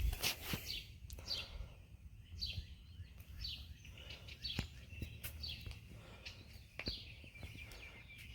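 A bird calling repeatedly: short downward-sweeping chirps, about one a second, over a faint low background rumble with a few light clicks.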